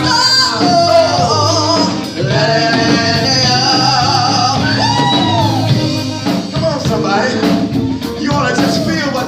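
Live gospel music: a singer's voice gliding up and down in vocal runs over band accompaniment.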